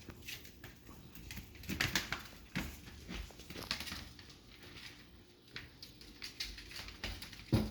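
Chihuahua puppies playing together: scattered short scuffles and paw patter, with small puppy noises here and there. The loudest sound comes near the end.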